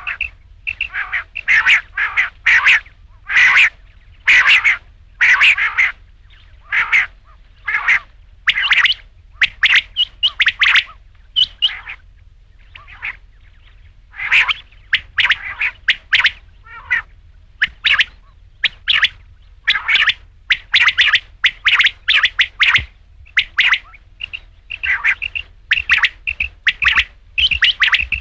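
Rain quail calling: short, sharp notes repeated in quick runs, with a pause of about two seconds near the middle.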